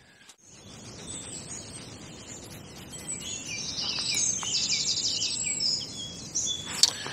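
Several songbirds singing over a steady background hiss. The song grows louder from about three seconds in, with a fast trill near the middle.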